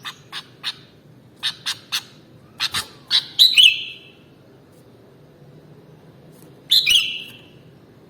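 Sooty-headed bulbul (kutilang) calling: a run of short sharp chips over the first three seconds, then a louder, slurred phrase of falling notes, heard again near the end.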